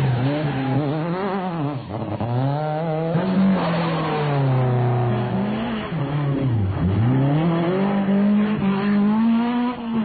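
Rally car engines revving hard at high rpm, the pitch climbing and falling again and again through gear changes and braking. About six and a half seconds in, the pitch drops sharply and then climbs back.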